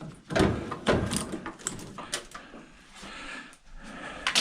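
Scattered clunks and clicks of metal parts and wiring being handled while an old Amana microwave oven is stripped down, with the sharpest knock just before the end.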